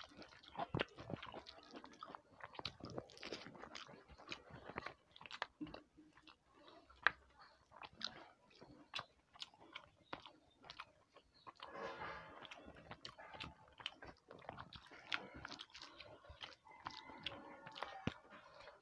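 Close-miked chewing of a mouthful of rice and fish curry: a steady run of wet mouth smacks and sharp clicks, several a second.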